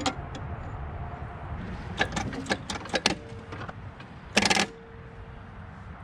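Metal tools clicking and clanking on a small diesel tractor as its injector lines are cracked open, with a short loud rush about four and a half seconds in.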